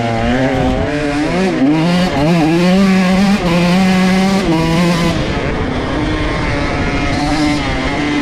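125 cc two-stroke dirt bike engine ridden hard, the revs climbing and dropping over and over as the throttle is worked through gear changes, then settling lower and steadier for the last few seconds.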